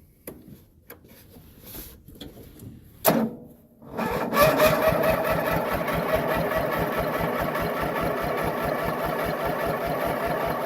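Land Mark 18/46 lawn tractor engine being cranked over on a cold start with its choke stuck, turning over steadily and evenly without catching. A few light clicks and a sharp knock come before the cranking starts about four seconds in.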